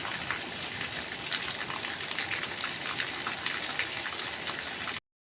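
Steady patter of falling water, like rain, with many small drop ticks over a constant hiss. It cuts off abruptly near the end.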